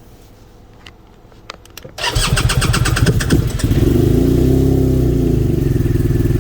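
Engine on E85 ethanol fuel cold-starting: after a few faint clicks, the starter cranks for about a second and a half, then the engine catches, revs up and back down once, and settles into a steady idle.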